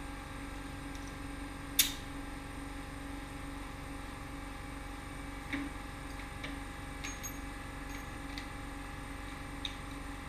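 A sharp metallic knock about two seconds in, then a few light clicks and taps, over a steady low hum: typical of hand tools being handled during car repair work.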